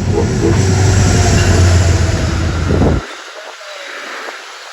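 Metro-North commuter train passing close by at speed, a loud heavy rumble of wheels on rail. The noise cuts off suddenly about three seconds in, leaving a quieter hiss.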